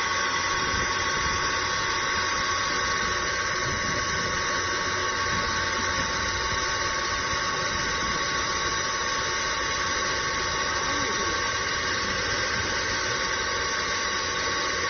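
Pump machinery of an electric sewage suction truck running steadily: an even mechanical hiss with a constant high whine.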